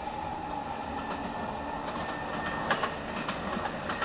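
A train running away across the station's switches, its wheels clacking over rail joints and points several times over a steady rolling rumble with a faint high whine.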